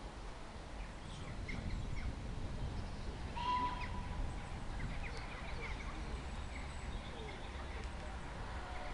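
Birds chirping and calling in many short notes, with a clearer whistled note about three and a half seconds in, over a steady low rumble of background noise.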